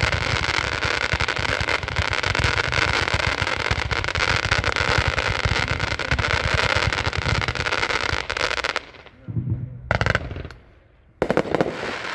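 126-shot consumer fireworks cake firing colour comets in a fast, unbroken stream of shots. About nine seconds in the stream stops and a few separate shots follow, the cake's closing chrysanthemum shots.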